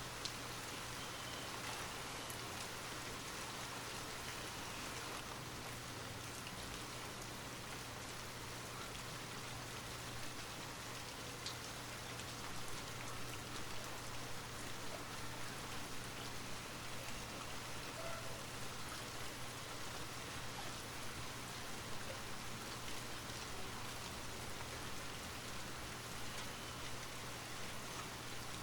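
Steady light rain, an even hiss with scattered faint drop ticks.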